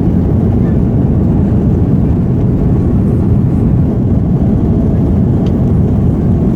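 Jet engines of an Airbus A330-200 airliner, heard as a loud, steady low rumble that does not rise or fall.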